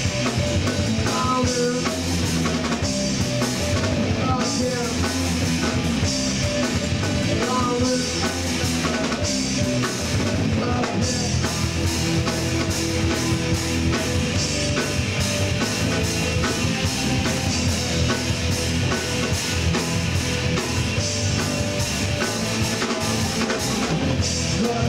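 Live rock band playing an instrumental passage between verses: electric guitars, bass and a drum kit keeping a steady beat.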